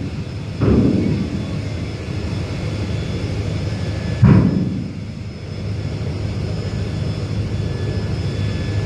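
Ro-ro ship's steel ramp door being lowered: two loud clanks about three and a half seconds apart, one just after the start and one a little before the middle, over the steady low hum of the ship's machinery.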